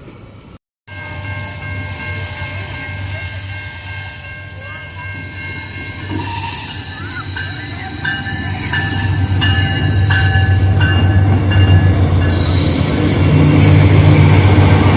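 Diesel-electric freight locomotives running, their low engine rumble growing louder about halfway through as they draw near. Thin, high ringing tones sound over the rumble in the middle stretch.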